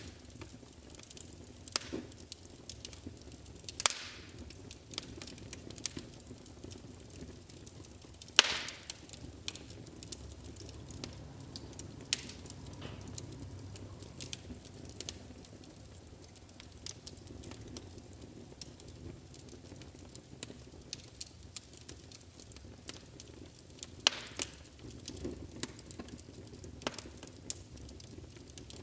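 Wood fire burning in a fireplace: a steady low rumble with frequent sharp crackles and pops, the loudest pops about four seconds in, around eight seconds in and again near the end.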